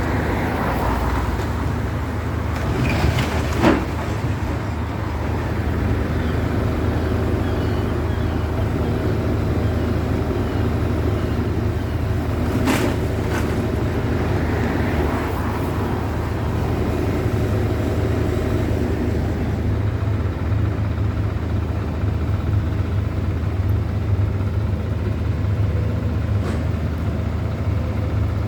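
A steady low engine rumble, with a sharp knock a few seconds in and another about halfway through.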